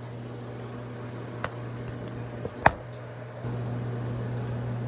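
Magic Chef 1.6 cu ft portable washing machine running with a steady low hum. Two sharp clicks come in the middle, the second the louder, and about three and a half seconds in the hum steps up louder as the machine moves on into its spin.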